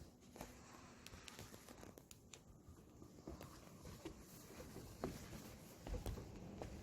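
Faint scattered clicks and rustling, with a low wind rumble on the microphone starting near the end.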